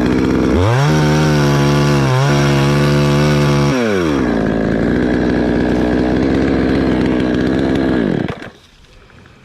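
Two-stroke chainsaw running, revving up sharply about half a second in and holding a high pitch for about three seconds, then dropping to a lower, rougher pitch as it works through the wood of an anjili tree. A little after eight seconds it cuts out, going much quieter.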